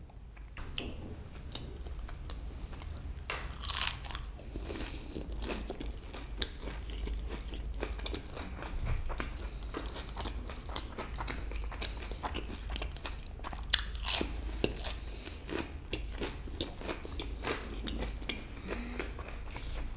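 A person chewing and crunching peri peri fries, with a dense scatter of short crisp clicks and a few louder crunches.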